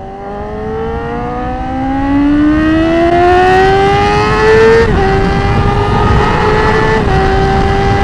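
Yamaha R6's inline-four engine accelerating hard, its pitch climbing steadily for about five seconds. Then an upshift drops the pitch, and it holds steady with a slight dip near seven seconds, over wind rumble.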